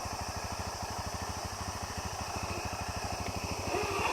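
Off-road motorcycle engine idling with a steady, rapid beat.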